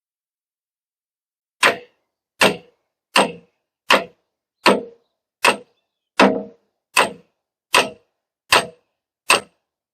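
A regular series of eleven sharp metal clanks, about one every three-quarters of a second, each with a brief ring, while refitting a tractor loader bucket pin.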